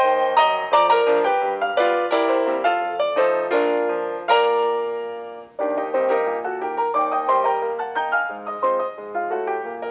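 Background piano music: a light melody of struck notes, with a held chord that fades away about five seconds in before the playing picks up again.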